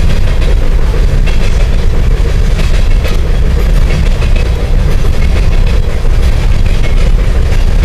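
Coal train hopper cars rolling across a steel deck railroad bridge: a loud, steady rumble with scattered wheel clacks.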